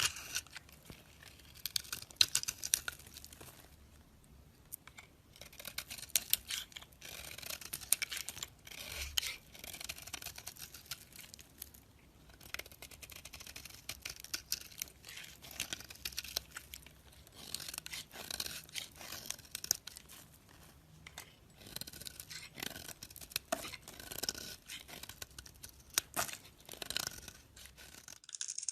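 A knife cutting into dry bar soap, with crisp crackling and crunching in runs broken by short pauses.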